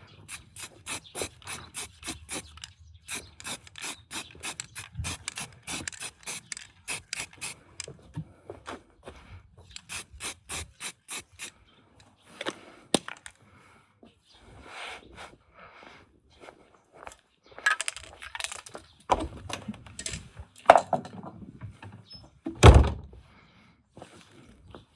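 Hand tools working on car parts: a long run of quick, even clicks for about the first ten seconds, then scattered knocks and scraping, with one loud thud near the end.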